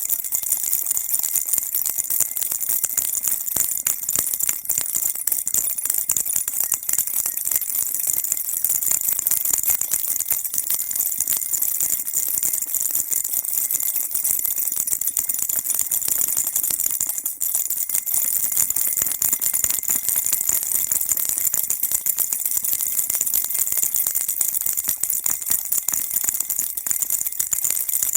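Baby rattle (ttallangi) shaken continuously, giving a dense, steady, bright jingling made of many tiny rapid strikes, with no pauses.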